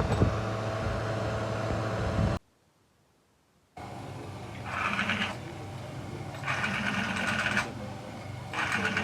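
A steady mechanical hum cuts off suddenly, and after about a second of silence a small machine runs in three short whirring bursts about two seconds apart.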